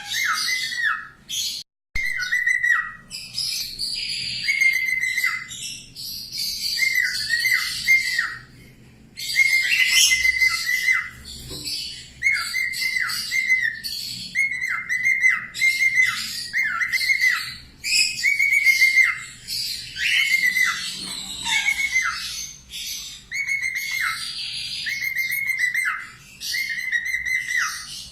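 A small songbird, the 'falk' of a bird-master recording, sings the same short phrase over and over, about once every second and a half to two seconds. Each phrase is a few quick down-slurred whistles with buzzy, trilling high notes over them. The song breaks off briefly twice.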